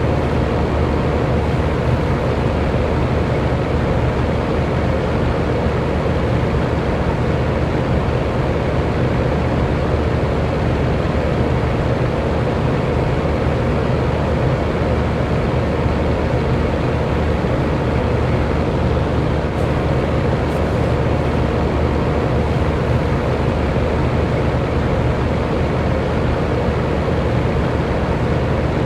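Electric fan running steadily: a constant rush of air with a low motor hum and a faint steady whine.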